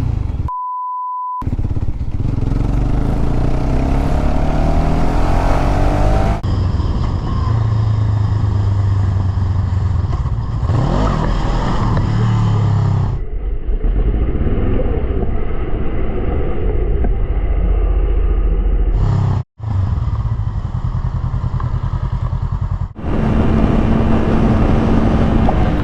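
Motorcycle engines running and revving, with rising pitch in places, under wind noise, across several cuts between clips. A steady one-second beep comes near the start.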